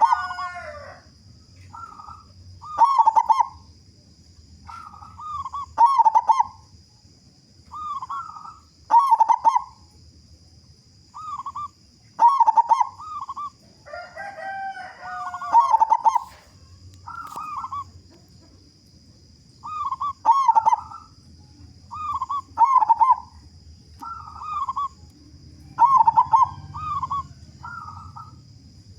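Zebra dove (perkutut) cooing: a short phrase of rolling, throaty notes repeated about every three seconds. Near the start and again about halfway through, another bird gives a longer, harsher call with several stacked tones. A steady high-pitched tone runs underneath.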